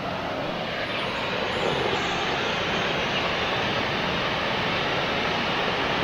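Steady rushing of water falling from Drake Falls, a 27-foot waterfall, into its pool, growing slightly louder about two seconds in.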